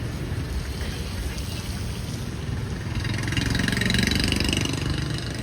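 A motor vehicle's engine running at idle on the street, getting louder from about three seconds in.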